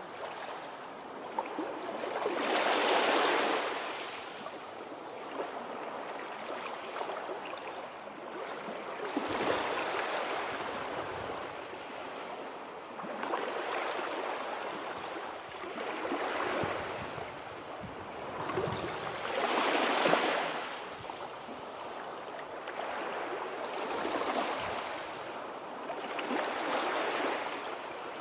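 Sea waves breaking and washing on the shore, the surf swelling and ebbing every few seconds, with one of the larger waves about twenty seconds in.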